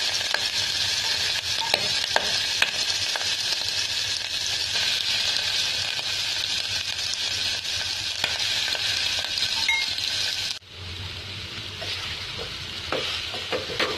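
Spice-marinated green mussels sizzling in hot oil in a metal pot, a steady dense hiss. About ten and a half seconds in the sizzle drops off abruptly to a quieter hiss, with a spoon stirring and clinking against the pot near the end.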